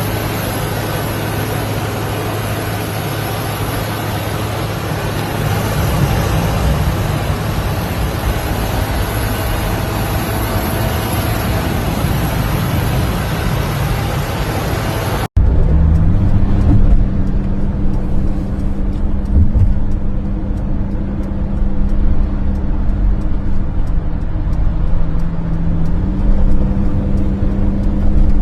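Steady vehicle engine and travel noise in two spliced clips: a hissing, even drone with a low hum, then after an abrupt cut about halfway through, a lower engine drone whose pitch steps up and down slightly.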